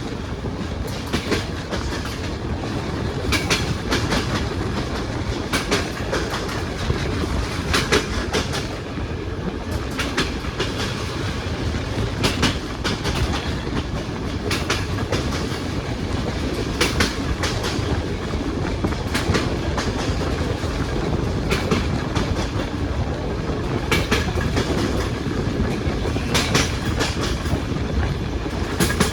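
Railway coach wheels clattering over rail joints at speed, heard from on board the train: groups of sharp clicks about every two seconds over a steady low rumble.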